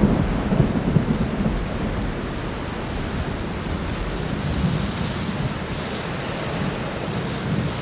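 Rain falling steadily, with a low rumble of thunder that fades over the first two seconds.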